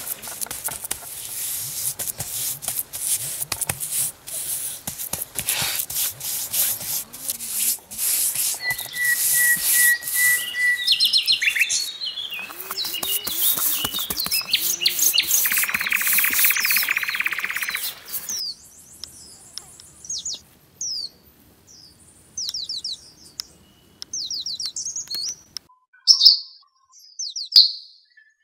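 Hands pressing and slapping wet mud, a dense run of crackling, squelching noises through the first half, with small birds chirping. Near the end the mud work stops and the birds are clear, with two loud calls.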